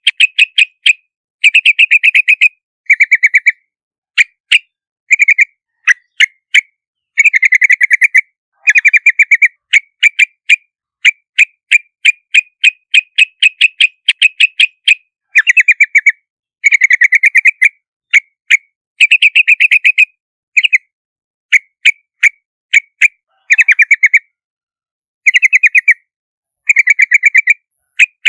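Yellow-vented bulbul calling: quick runs of short, sharp chattering notes, about ten a second, in bursts broken by brief pauses.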